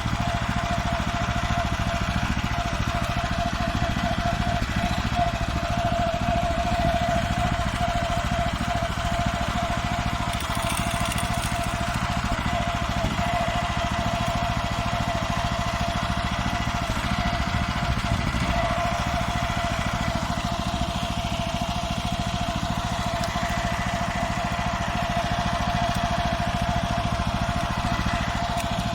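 Farmer 1511 walk-behind tractor's engine running steadily under way, with a strong steady whine over a dense low rumble.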